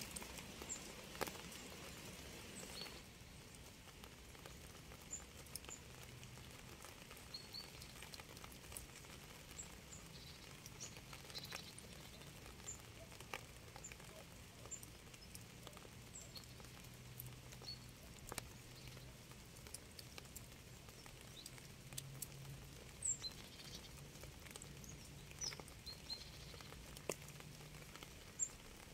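Faint light rain: scattered drops pattering and dripping at irregular moments, with short high chirps now and then.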